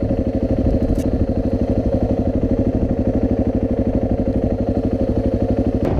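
Motorcycle engine running at a steady speed, its fast even firing pulse holding constant with a steady tone over it.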